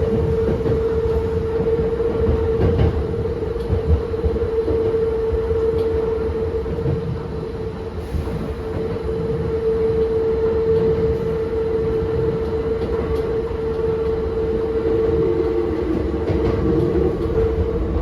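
Hankyu 7000 series field-chopper-controlled electric train heard from inside the car while running: a continuous rumble of wheels on the track with a steady whine, joined by a second, lower tone about three-quarters of the way through.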